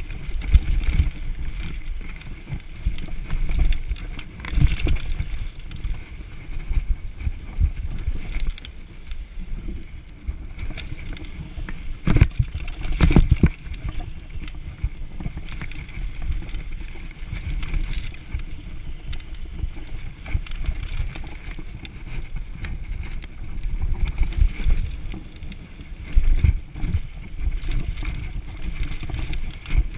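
Mountain bike riding down a rough downhill trail: tyres rumbling over the dirt, and the bike rattling and knocking over bumps, with a couple of harder knocks about twelve seconds in.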